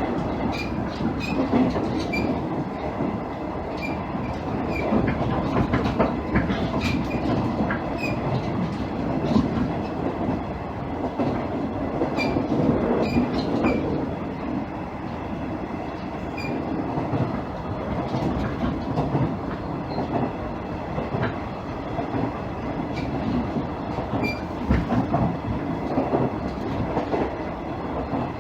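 Cabin running sound of a JR East KiHa 110 series diesel railcar: a steady rumble of the diesel engine and wheels on the track, with clacks over rail joints and scattered short high chirps.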